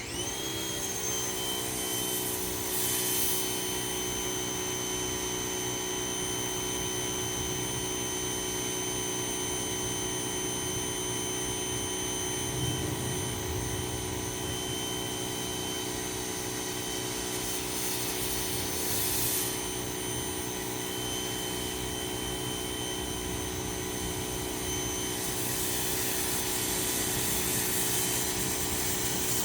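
Ryobi 2000 psi power washer switching on, its motor and pump spinning up within a second, then running steadily. A louder hiss joins three times: a few seconds in, about two-thirds through, and near the end.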